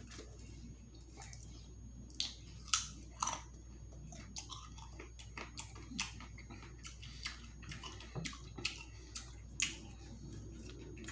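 Close-miked chewing and biting of food: irregular wet clicks and crisp crunches from the mouth, the loudest pair a little under three seconds in and just after.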